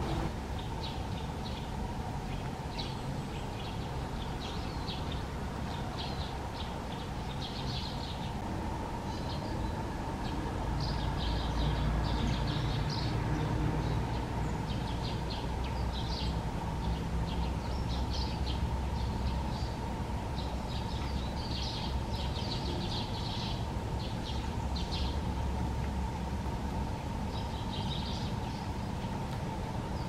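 Short, high bird chirps scattered through, some in quick runs, over a steady low rumble.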